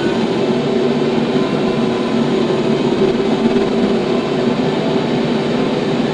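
TYM T574 tractor's diesel engine running steadily under a constant load.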